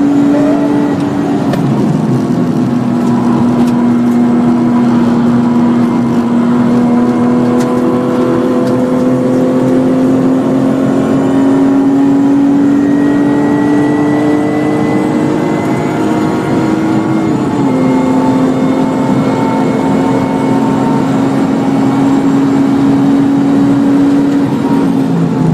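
BMW E36 M3's straight-six engine heard from inside the cabin at about 100 to 130 mph, pulling hard with its pitch climbing slowly. About two-thirds of the way through the pitch drops suddenly as it shifts up a gear, then it climbs again, over steady tyre and wind noise.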